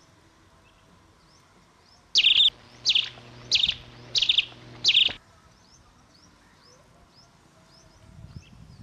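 A bird calling five times in quick succession: loud, sharp, high calls about two-thirds of a second apart. Faint small chirps repeat after them.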